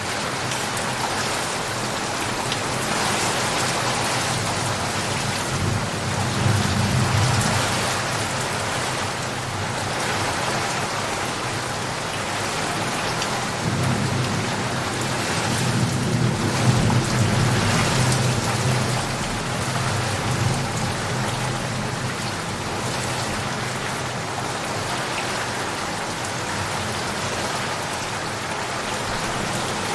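Steady heavy rain with thunder rumbling twice, a short roll about six seconds in and a longer one from about thirteen to twenty seconds in.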